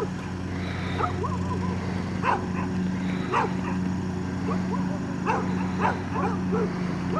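A dog yipping in short, repeated calls over a steady low hum.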